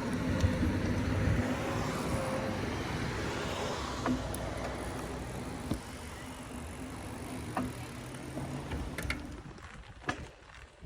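Road traffic: a motor vehicle's steady engine and tyre noise, slowly fading away near the end, with a few light clicks.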